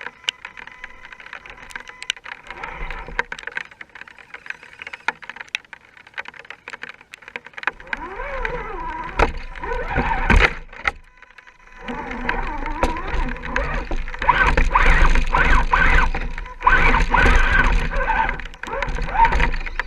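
Small electric motor and gears of an RC scale crawler whining as it drives and climbs, with scattered clicks and knocks; it gets louder and busier from about eight seconds in, with a short pause near the middle.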